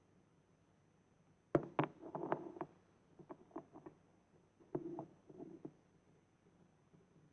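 Hard plastic clicking and clattering of a Bruder toy garbage truck and its toy bins being handled: a sharp knock about a second and a half in, a quick run of clatters, a few single clicks, then a second cluster of clatters near the middle.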